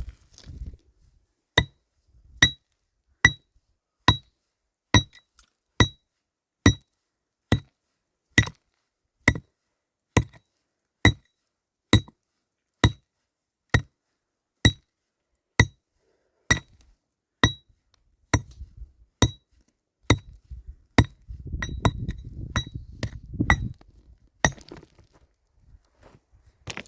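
Hammer driving nails into wooden planks: steady blows a little more than once a second, each with a short metallic ring. Near the end the blows become irregular amid rustling handling of wood.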